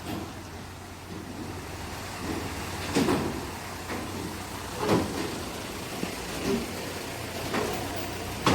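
Vehicles boarding a car ferry: a steady engine rumble broken by a few loud thumps, about three seconds in, about five seconds in and at the very end.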